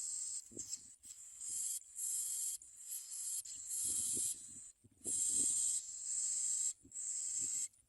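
Bar-winged prinia nestlings begging with hissing calls in repeated bursts of about half a second to a second, with short breaks between them.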